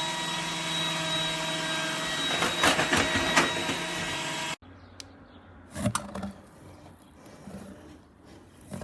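iRobot Roomba 105 Combo robot vacuum running: a steady motor whine with several fixed tones that cuts off abruptly about four and a half seconds in. A few faint knocks follow.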